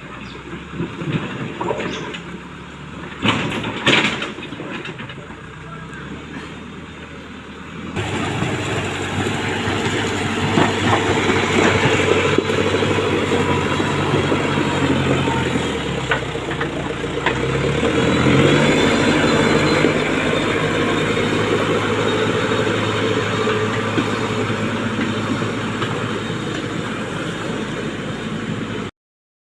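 Quieter machinery sound with a few sharp knocks, then, about a third of the way in, the diesel engine of a backhoe loader running loudly under load, its pitch dropping and rising again around the middle.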